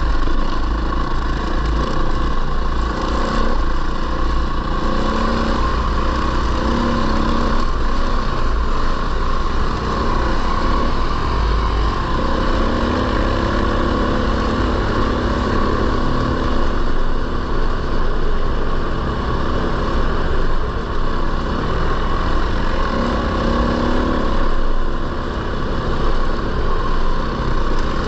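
450 cc four-stroke single-cylinder dirt bike engine running under way on a trail ride, its pitch rising and falling with the throttle, over a steady low rumble.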